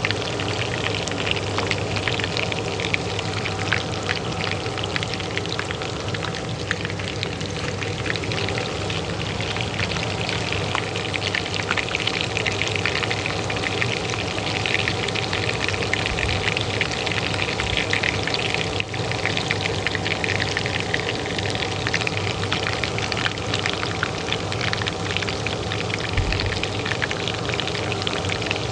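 Hot oil sizzling and crackling steadily in a pan, over the steady hum of a kitchen range hood fan.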